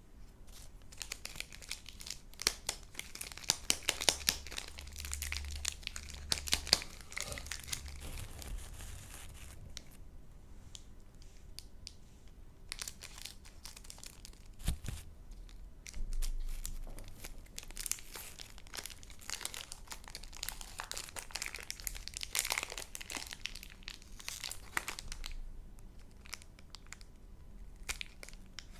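Candy wrappers crinkling and tearing as sweets are unwrapped, in two long bouts of dense crackling with a pause between.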